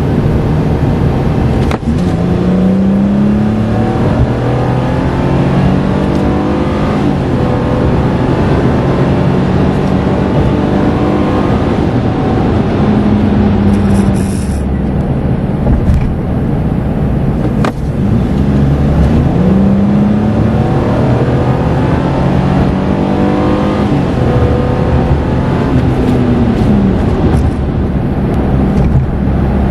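Toyota Estima's 3.5-litre 2GR-FE V6 engine running under load while the van is driven, over steady road and wind noise. The engine note rises and falls several times.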